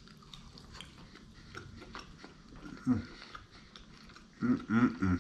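A person chewing food close to the microphone, with many small wet mouth clicks, and a short voiced hum about three seconds in and a longer one near the end.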